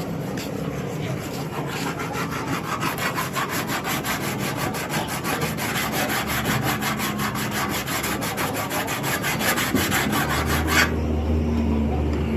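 Rapid back-and-forth hand rasping or rubbing on car bodywork, about five strokes a second, that stops abruptly near the end. A low steady hum starts shortly before the strokes stop.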